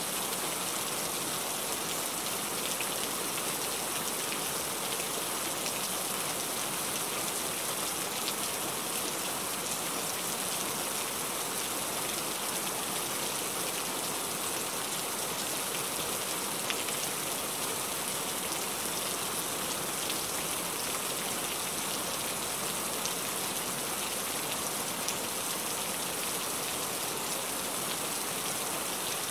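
Heavy rain falling steadily: a dense, even hiss with scattered sharp drop ticks and no let-up.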